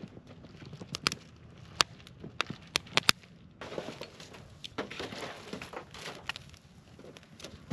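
Footsteps crunching in deep, very cold snow. A series of sharp snaps comes in the first three seconds, followed by softer, rhythmic crunching.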